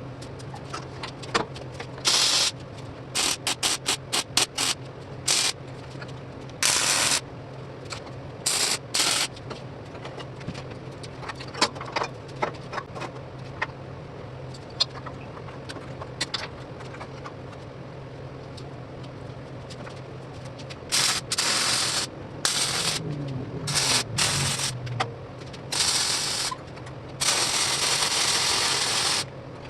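Steel being MIG welded in short bursts: a series of hissing arc bursts, each from a fraction of a second to about two seconds long, most of them in the first few seconds and again toward the end, over a steady low hum.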